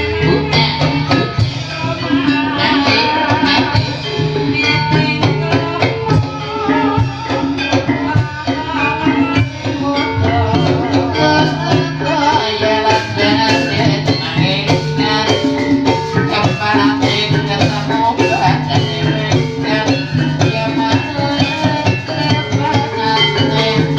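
Ebeg dance accompaniment: a loud ensemble of drums and pitched percussion playing a continuous, busy rhythm.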